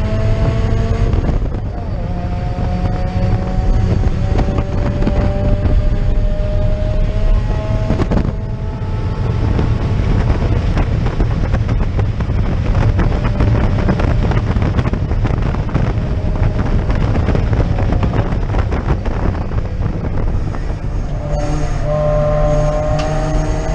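Mazda Miata's four-cylinder engine accelerating hard on track, heard from inside the stripped cabin. The engine note climbs steadily and drops back at gear changes, over steady road and wind noise.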